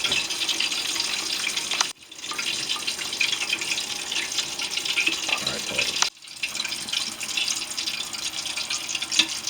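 Chicken wings sizzling and crackling in hot frying oil, a dense steady crackle that cuts out abruptly twice, about two and six seconds in.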